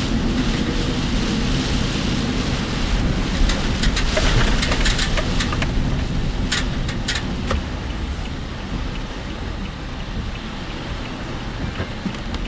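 Heavy typhoon rain and road noise from a moving car: a steady hiss over a low rumble, with a handful of short sharp ticks around the middle.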